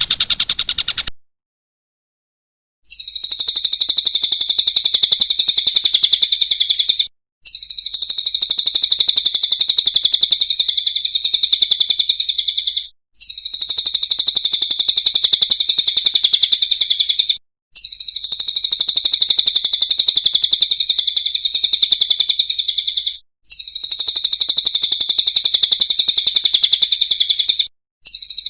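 Recorded birdsong from a song-tutoring track for a long-tailed shrike. The previous call stops about a second in; after a short silence a high, very rapid, buzzy trill starts, repeating in phrases of about four to five seconds with brief breaks between them.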